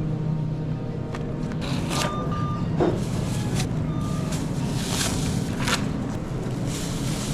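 Truck engine running with a steady low hum, with rustling and knocking handling noises and two short electronic beeps, about two and four seconds in.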